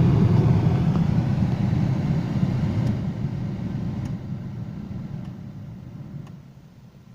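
Renault Megane Scenic cabin heater blower fan blowing at its top speed, a steady low rush of air that gradually fades away as the fan slows down. The fan is working on all six speed positions after a home repair of its control contact.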